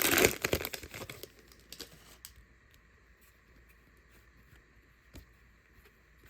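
Plastic trading-card pack wrapper crinkling and tearing for about the first second, then only a few faint clicks as the cards are handled.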